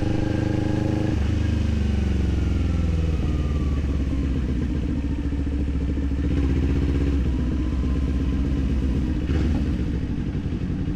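Kawasaki Z400's parallel-twin engine under way. It runs steadily, then about a second in the revs fall over a couple of seconds, and it settles to a steady lower engine note.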